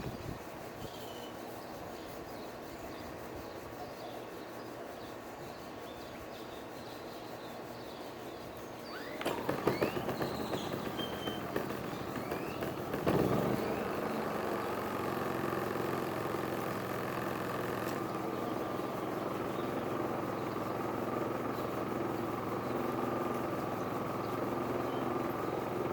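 Champion 4650 inverter generator running steadily in eco mode. About nine seconds in its sound grows louder and rougher, and from about thirteen seconds it holds steady at a higher level.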